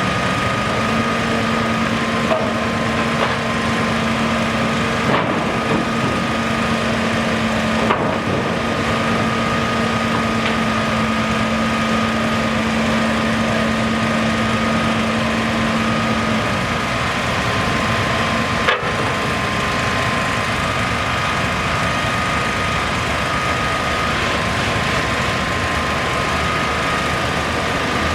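Steady machinery noise, like an engine running, with a hum that holds one pitch and stops about two-thirds of the way through, and a few sharp knocks.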